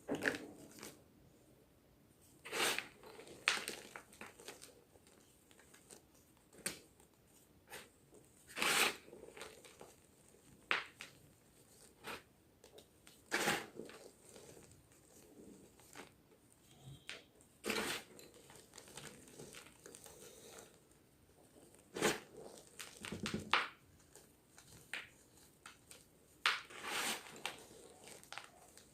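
Gym chalk crunching and crumbling in a series of separate dry crunches, one every second or two, with short quiet gaps between.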